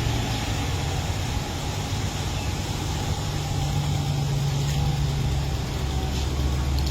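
Steady low rumble of a motor vehicle running, with a constant hum and no sharp events.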